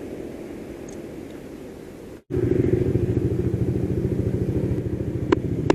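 Motorcycle engine running, quiet at first. About two seconds in, after a brief dropout, it is much louder and close, with a fast, even beat. Two sharp clicks come near the end.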